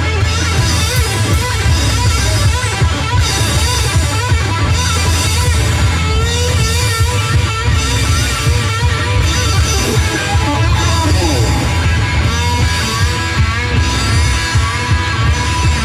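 Live rock band playing an instrumental section: an electric guitar lead with bending notes over a steady bass line and drums with a regular cymbal beat.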